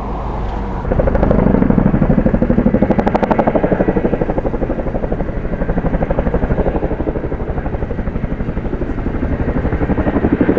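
Helicopter rotor blades thudding in a fast, even beat, growing louder about a second in as it passes; the onlooker thinks it is a twin-rotor Chinook.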